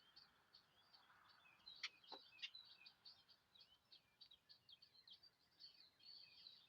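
Faint chirping of small birds: many quick, high chirps and twitters without a break, with a few louder, sharper calls about two seconds in.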